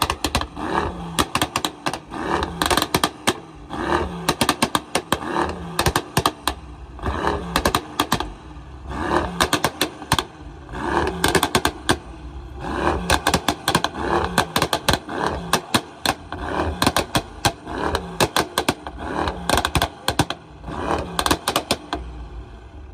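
A car engine revving repeatedly in bursts about every two seconds, with a rapid, irregular crackling throughout.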